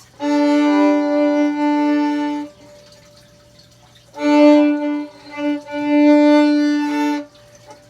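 Violin bowed across several strings at once, sounding all the notes together in two long held strokes of about three seconds each, with a short pause between them.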